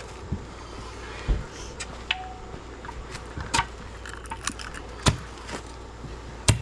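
Irregular sharp knocks and clinks of a digging tool striking rocks in hard, rocky ground, about six strikes spread unevenly.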